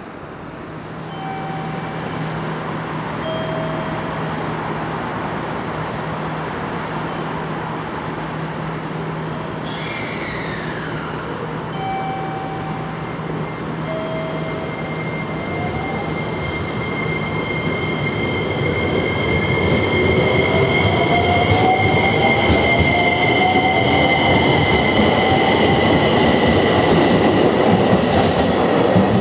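JR Kyushu 817 series electric train's VVVF inverter whine as it pulls away and accelerates, with wheel and track noise. The whine is first a few short tones that step between pitches, then from about halfway several tones glide steadily upward as the train gathers speed and the sound grows louder.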